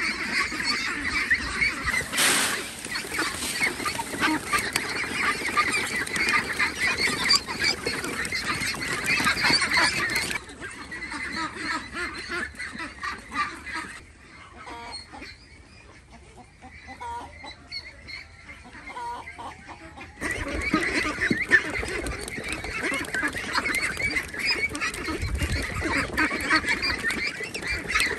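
A large flock of geese honking, many calls overlapping. The flock falls much quieter for several seconds in the middle, then comes back abruptly at full strength.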